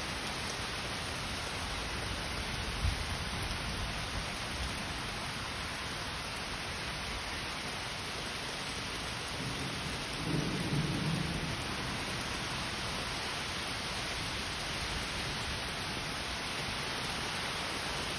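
Steady rain falling on tree leaves, grass and a paved drive during a thunderstorm, with a short low rumble of thunder about ten seconds in.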